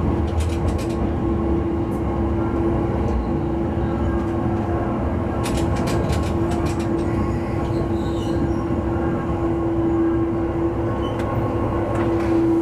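Diesel railcar running along the line, heard from inside the car: a steady engine and running drone with a constant hum. The wheels click over rail joints in two short runs, about half a second in and again about six seconds in.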